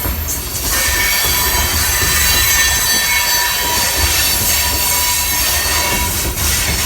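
Freight train cars rolling past, wheels squealing in several thin, steady high-pitched tones over a continuous rumble.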